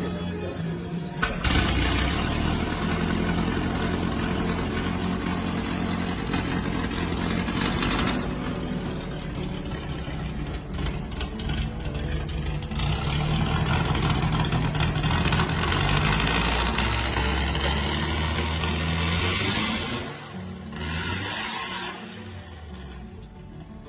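A vintage car engine starts about a second in and runs, revved up and down, with the revs rising in the middle. Near the end the engine sound drops away.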